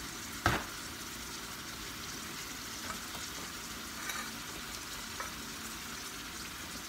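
Sweet potato slices frying in oil in a pan, a steady sizzle throughout. A single sharp knock sounds about half a second in, and a few faint clicks follow later.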